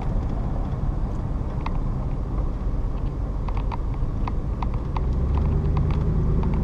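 Road and engine noise of a moving truck: a steady low rumble with scattered light ticks, the engine note rising and growing louder about five seconds in.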